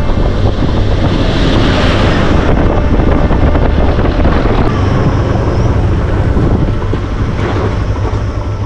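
Motorcycle engine running under way with a steady low drone, and wind buffeting the microphone.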